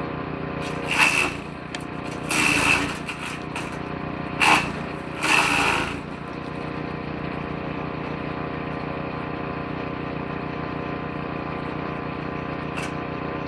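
Woodchipper-shredder engine running steadily, with four loud bursts of branches being chipped by the shredder drum in the first half; after that the engine runs on alone.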